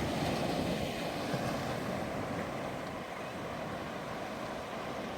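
Steady rushing outdoor noise, waves washing with wind on the microphone, slowly growing quieter.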